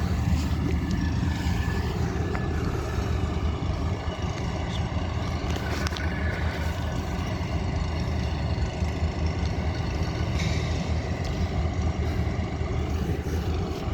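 Diesel engines of a group of CN freight locomotives idling while the train stands, a steady low rumble that does not change.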